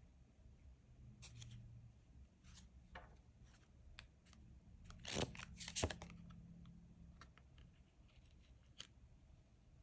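Tarot cards being handled: faint rustling and light taps as cards are drawn and laid down, with two sharper snaps about halfway through.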